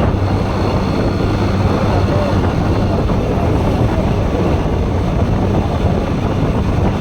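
Bajaj Pulsar NS160's single-cylinder engine running steadily on the move, with wind rushing over the microphone.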